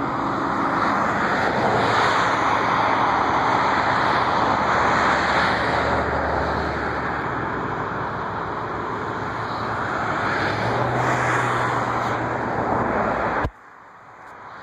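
Airliner passing close by, a loud steady rush of jet engine noise with a low hum under it, which cuts off abruptly near the end.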